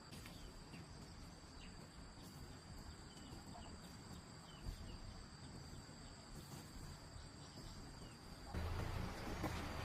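Crickets chirring faintly and steadily. Near the end a louder low rumble sets in.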